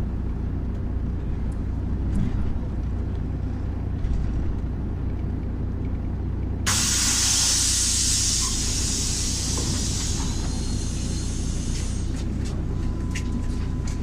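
MAZ-103 city bus engine running with a steady low rumble; about seven seconds in, a sudden loud hiss of released compressed air from the bus's pneumatics (brakes or doors), fading over several seconds, followed by a few light clicks.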